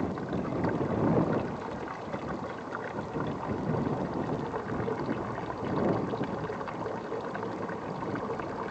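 Strong wind gusting and buffeting the microphone, rising and falling in swells.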